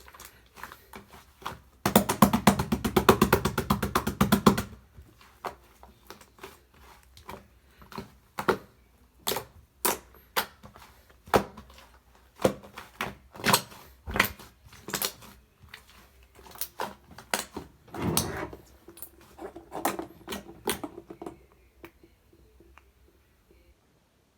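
Slime-like clay being mixed and squished by hand, giving sharp sticky clicks and pops. A dense run of crackling begins about two seconds in and lasts a couple of seconds. Scattered single clicks follow, with another cluster of crackles near the end.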